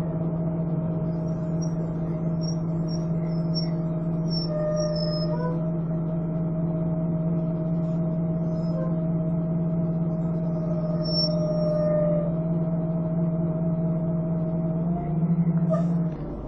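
Volvo Olympian double-decker bus engine running at a steady, unchanging pitch with a vacuum-cleaner-like whine (the 'hoover' sound). There is a brief change and a louder low rumble near the end.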